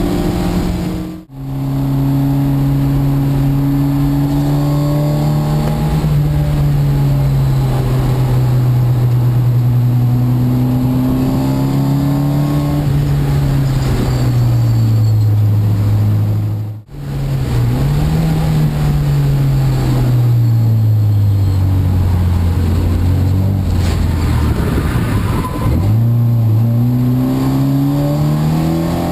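Nissan 240SX's KA24DE inline four-cylinder race engine heard from inside the stripped-out cabin, running hard at speed. Its pitch holds fairly steady and then sinks slowly before climbing again through the laps. The sound drops out briefly twice, about a second in and about halfway through.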